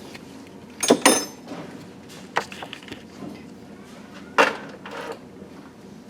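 Metal hand tools knocking and clinking as they are handled: a quick double clink about a second in that rings briefly, then a few single knocks, the loudest a little past the middle.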